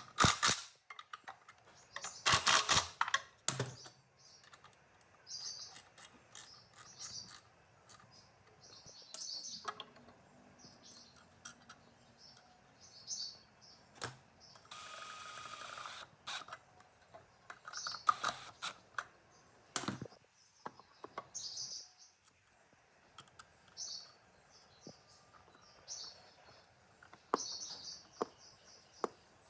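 Scattered sharp clicks and knocks of tools and metal parts being handled, heaviest in the first few seconds, with small high chirps of birds recurring throughout and a brief hiss about halfway through.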